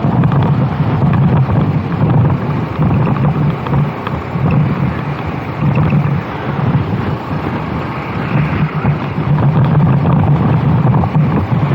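Racing kart engine running at speed, its drone fading and returning as the kart goes through corners, with heavy wind noise on the microphone.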